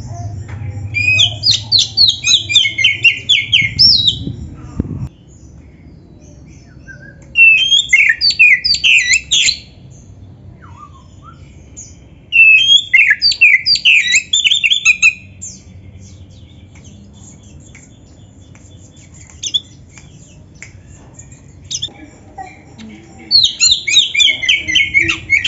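Oriental magpie-robin (black-breasted kacer) singing in four bursts of rapid, high, sweeping notes, each two to three seconds long, with pauses of several seconds between them.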